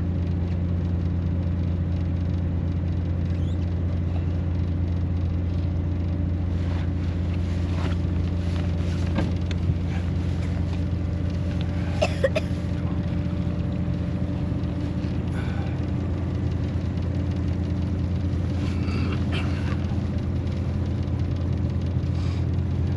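Boat engine idling with a steady low hum. A couple of faint knocks come about twelve seconds in.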